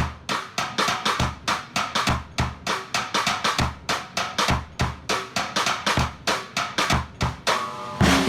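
Drum kit playing alone, a steady beat of kick drum and snare strikes, about three to four hits a second. Just before the end the rest of the band comes in with held keyboard and bass notes.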